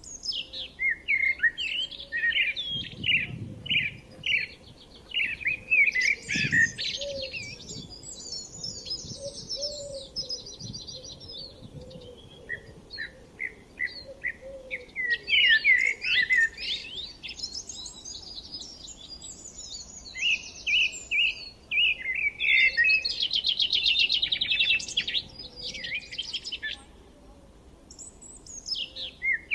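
Several songbirds singing together: quick runs of repeated chirps and fast, rattling trills overlapping one another, with a short lull near the end.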